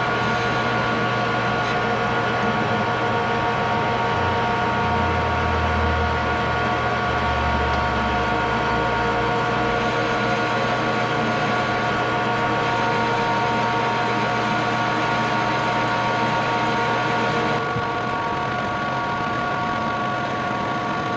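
Metal lathe running steadily, its motor and gearing giving a steady whine of several fixed tones over a mechanical hiss. The sound drops a little and changes slightly near the end.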